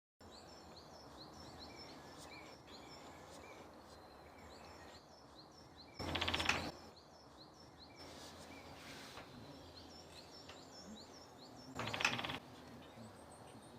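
Great spotted woodpecker drumming: two short, rapid rolls of beak strikes on wood, the first about six seconds in and the second about six seconds later. Other birds sing high repeated chirps throughout.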